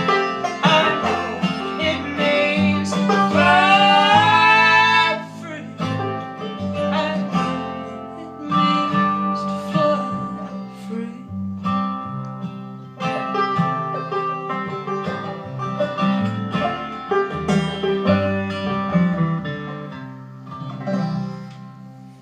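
Live acoustic folk band playing, with plucked strings, a low bass line and a sung note held with vibrato about three seconds in. The music winds down and fades near the end.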